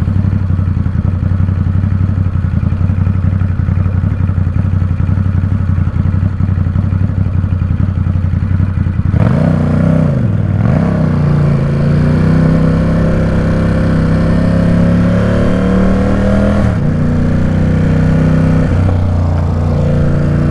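Ducati Supersport 950 S's 937 cc L-twin engine running at low revs with a steady low pulse. About halfway it is revved and the bike pulls away, its note climbing steadily. About two-thirds in the note drops suddenly, then it runs steadily again.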